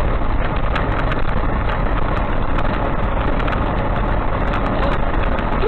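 Steady engine and road noise of a motor vehicle, as picked up by a dashcam, with no sudden change.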